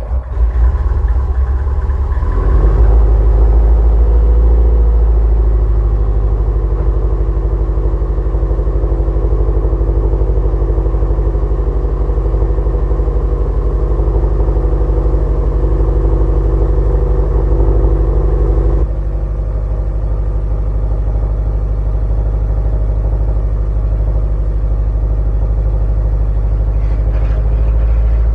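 Turbocharged Subaru STI flat-four engine, just started, settling over the first couple of seconds and then idling steadily through a newly fitted exhaust. About 19 seconds in the idle drops a step and turns slightly quieter.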